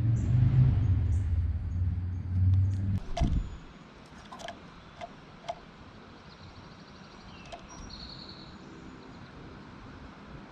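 A low rumble that cuts off about three seconds in, followed by a few sharp taps and faint, short high bird notes, one of them a quick rising chirp.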